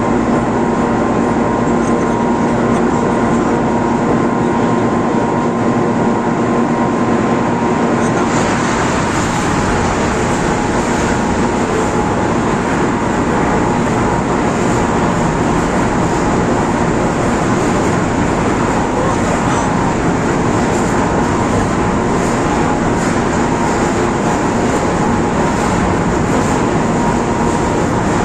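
Crane machinery running steadily while lowering a heavy load, a 4,100 kg electric motor, with a constant hum. About eight seconds in the noise becomes fuller and deeper.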